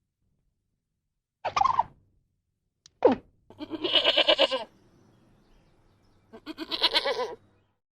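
An animal calling: two short cries, then two longer stuttering calls of about a second each, made of rapid pitched pulses.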